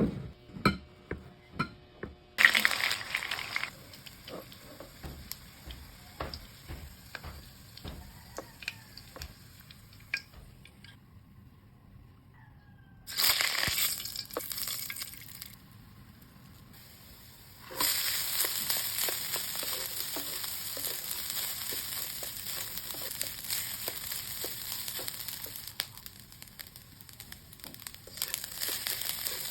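Chicken embutido frying in hot oil: a sizzle with crackles, coming in separate stretches with quieter gaps, then running steadily through the last third. A quick run of sharp knocks comes in the first two seconds.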